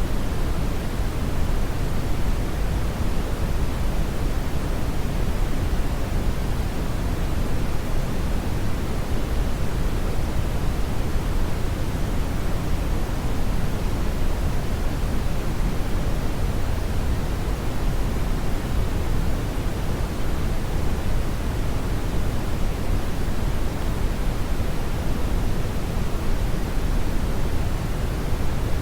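Steady brown noise: a constant deep rushing hiss, heaviest in the bass and fading toward the treble, unchanging throughout.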